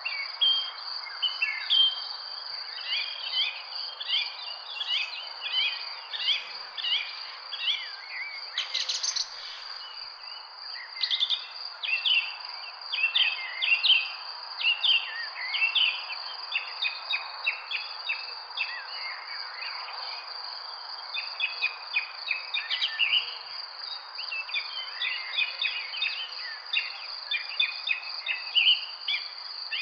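Many birds chirping in quick short calls over a steady, unbroken high insect whine, with a soft hiss of background noise underneath.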